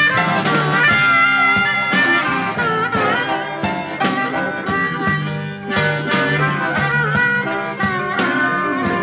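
Blues band recording in an instrumental break, a harmonica playing a lead line with bent notes over guitar, bass and a steady drum beat.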